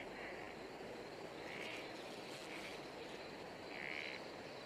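Faint natural wildlife ambience: a soft steady hiss with a few short, high-pitched chirping calls about a second or so apart.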